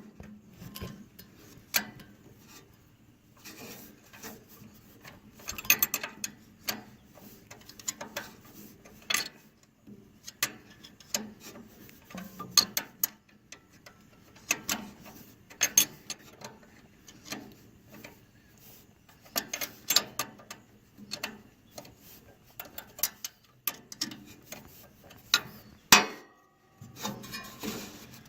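Irregular metallic clicks and taps of a wrench working the distributor hold-down nuts on a 1942 Ford 9N tractor engine, with short pauses between bursts.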